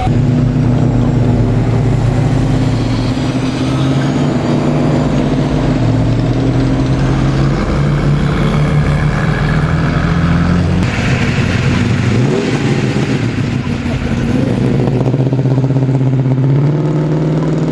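Car engines running, idling steadily with some revving; the engine note shifts about eleven seconds in and dips briefly before settling again.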